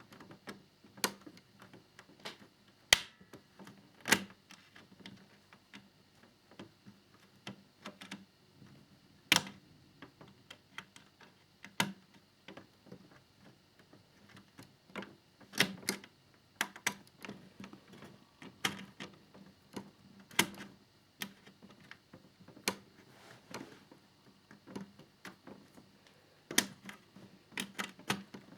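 Irregular clicks and taps of small plastic model-motorcycle parts and tools being handled during assembly, with a few sharper knocks.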